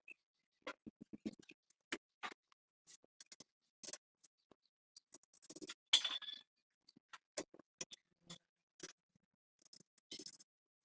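Scattered light clicks and clinks of small objects being handled and set down, with a short scraping rustle about six seconds in that is the loudest sound.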